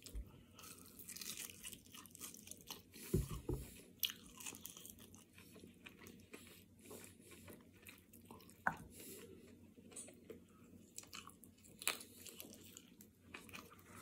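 A person biting and chewing a crispy air-fried chicken wing, close to the microphone: faint, irregular crunches and mouth sounds, with a few louder clicks, the loudest about three seconds in.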